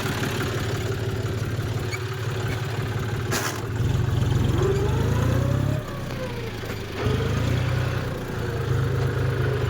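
Tractor engine running, louder from about four seconds in, easing off briefly around six seconds and picking up again, with a sharp click just before it first picks up.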